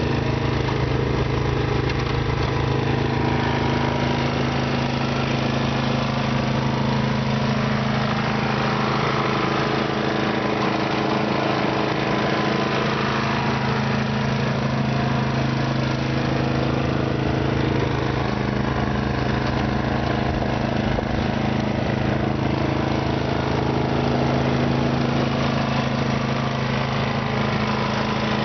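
Simplicity snow blower's engine running at a steady, even speed.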